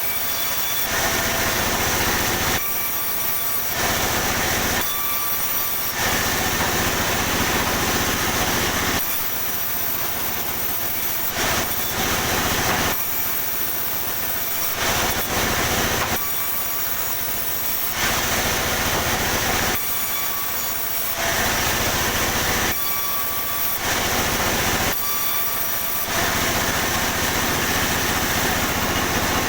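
Sawmill saw running continuously while cutting pine, its sound changing every one to three seconds between a steady low hum and a hissier sound as pieces go through the blade.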